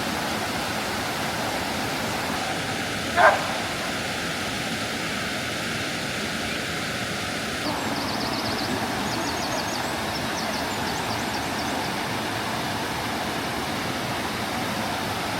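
Waterfall rushing in a steady, even roar of falling water. About three seconds in a single short rising call cuts through, and faint rapid high chirps come and go in the second half.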